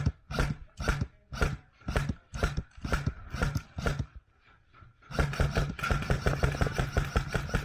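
Footsteps at about two a second. After a short pause, a fast, even rattle of many strokes a second begins about five seconds in.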